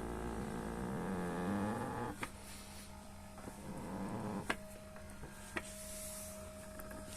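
Electric massager running, its motor humming while the massage rollers squeak as they rub against the massager's own fabric cover, the sign of friction that calls for lubrication. A few sharp clicks come in the second half.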